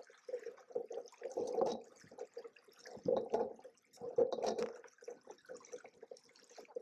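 Lake water splashing and slapping against the hulls of a Hobie Cat 16 catamaran under sail, in uneven surges about every second or so.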